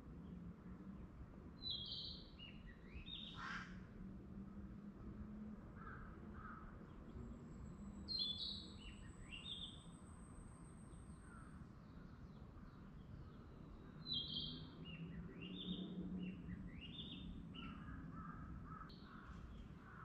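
A songbird singing three phrases of quick falling notes, about six seconds apart, over a faint low steady hum.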